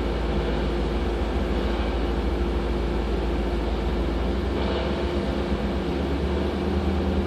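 CB radio receiver hiss and static on an open channel between transmissions, steady throughout, with a low hum and a faint steady tone under it.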